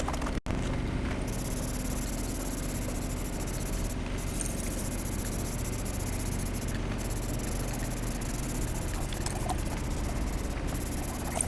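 Aerosol spray-paint can hissing in long steady passes, stopping briefly a few times, over a low steady rumble.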